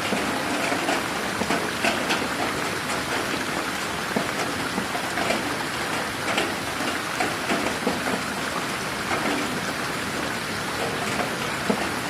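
Steady rain falling in a garden, a continuous hiss of rainfall with many individual drops ticking on surfaces.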